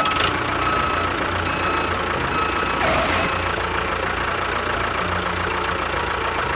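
An engine-like machine running steadily, with a continuous drone and a pulsing low hum.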